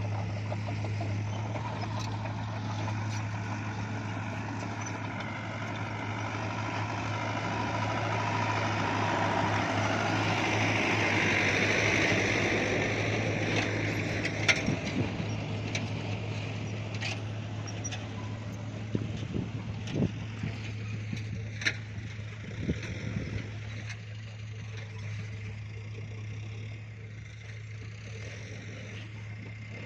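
Bulldozer's diesel engine running with a steady low drone, swelling louder toward the middle as it works. In the second half a scatter of sharp metallic knocks and clanks sounds over the engine, which then eases off.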